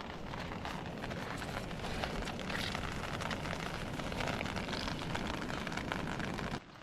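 Rain falling steadily: an even hiss with fine patter.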